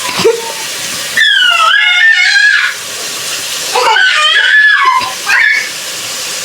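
A young child squealing in two high-pitched bouts of a second or two each, over a steady hiss from a pot boiling on the stove.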